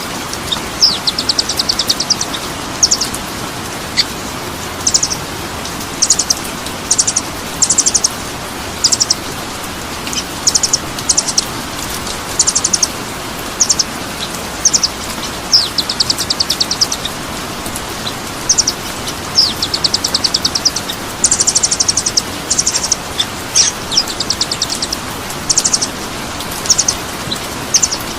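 Songbird singing in short, rapid high-pitched trills and chatters, about one burst a second, over a steady hiss.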